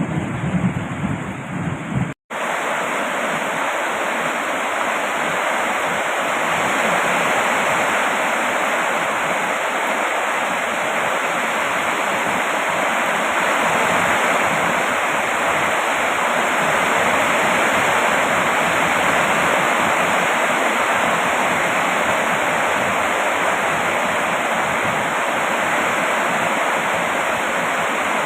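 Steady heavy rain, an even loud hiss. For about the first two seconds a low rumble runs under it. The rumble cuts off abruptly with a brief dropout, and then the rain goes on alone.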